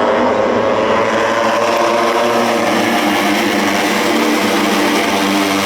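Several racing motorcycle engines running at once, their overlapping engine notes drifting slowly up and down in pitch over a steady haze of track noise.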